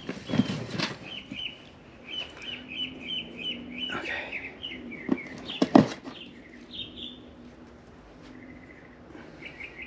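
A small bird chirping in the background, with a quick run of short high chirps at about three or four a second in the first few seconds and a few more later. Several sharp clinks and taps come from loose engine valves and parts being handled on the bench, the loudest just before six seconds in.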